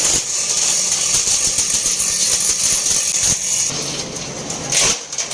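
Harsh, steady high-pitched hiss of power-tool work on the steel of a truck axle housing. It eases off about three and a half seconds in, and a short loud burst comes near the end.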